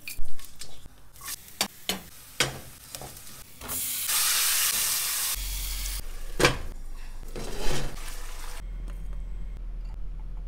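Cooking in a pot on a gas hob: clicks and taps of whole spices and utensils, then a loud steady sizzle of frying from about four seconds in for about two seconds. A sharp clink about six and a half seconds in, as a glass lid goes onto the pot, then a shorter burst of sizzling before it goes quieter.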